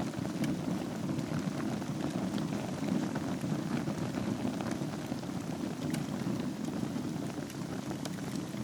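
Wood fire burning in a fireplace over glowing embers: a steady low rumble of flames with scattered small crackles and pops.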